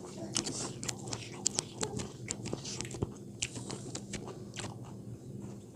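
People chewing and eating close to the microphone: irregular small clicks and smacks of mouths working on food, over a faint steady low hum.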